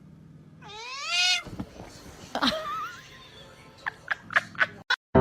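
A domestic cat gives one drawn-out meow about a second in, rising then falling in pitch, followed by a scatter of short clicks and knocks.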